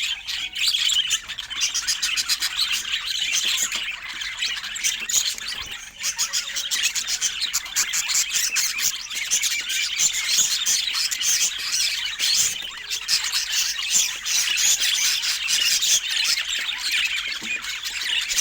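Budgerigars chattering and warbling without a break, a dense run of fast high chirps and squawks.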